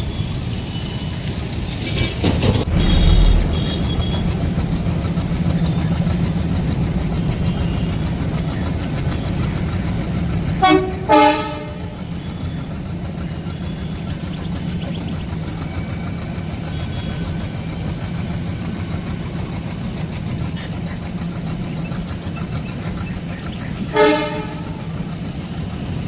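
Train running with a steady low rumble. Its horn sounds two short blasts about ten seconds in and one more short blast near the end.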